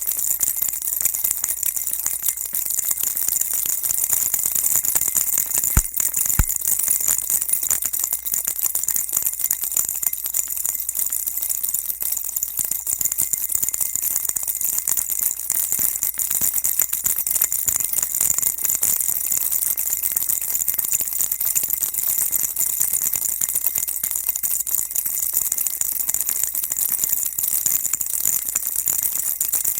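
Baby rattle shaken continuously, an even, dense jingling rattle with most of its sound in the highs. There are two brief clicks about six seconds in.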